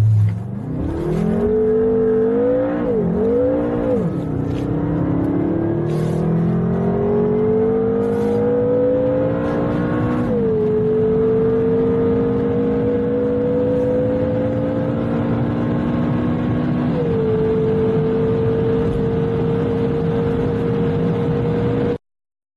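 Twin-turbo V8 sports saloon accelerating hard at full throttle, heard onboard. The engine note rises in pitch with quick upshifts in the first few seconds, then makes long pulls broken by gear changes about ten and seventeen seconds in. It ends in a near-steady high-speed run before cutting off suddenly.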